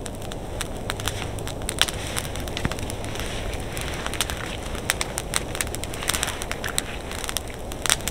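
Campfire crackling: irregular sharp pops and snaps over a steady low rush.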